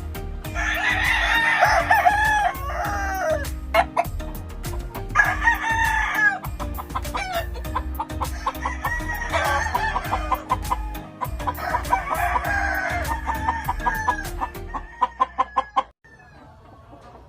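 Gamefowl roosters crowing, about four long crows one after another, with clucking. Near the end comes a quick run of sharp clicks before the sound drops away.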